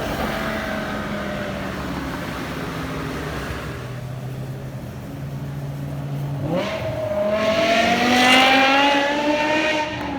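BMW E60 M5's V10 through an IPE aftermarket exhaust, running at light throttle with the revs slowly easing down. About six and a half seconds in the throttle opens and the revs climb steadily for over three seconds, getting louder, then drop sharply near the end.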